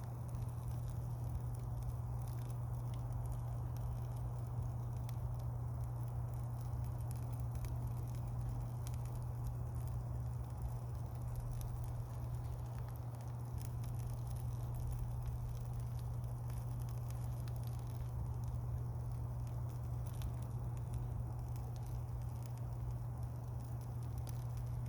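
Wood campfire burning, with frequent small crackles and pops throughout, over a steady low hum.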